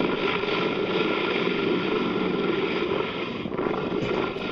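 Mi-17 helicopter's turbine engines and rotor running as a steady roar, with wind noise on the microphone.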